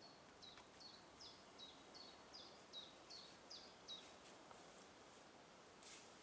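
A songbird singing faintly in woodland: a run of about ten short, high, falling notes, a little over two a second, stopping about four seconds in. A brief faint rustle comes near the end.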